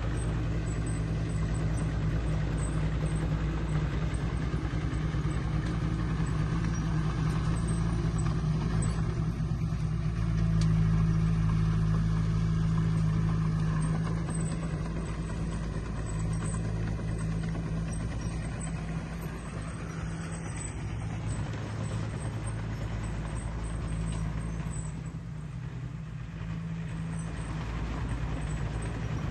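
Diesel engine of heavy earthmoving equipment running steadily with a low drone, growing a little louder about ten seconds in and easing off later.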